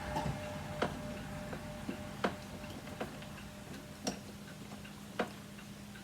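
Sharp, irregular clicks and small taps of plastic vacuum-cleaner parts being fitted together, about one a second, over a faint steady hum.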